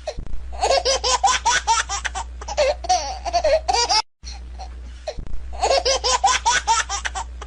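A baby laughing in rapid, pitched bursts of giggles. The laugh breaks off about four seconds in and the same run of laughter starts again, over a low steady hum.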